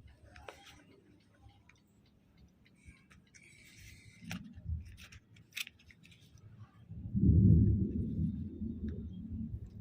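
Thunder: after a few faint clicks, a deep rumble breaks in about seven seconds in, loudest at its start and rolling on as it slowly eases.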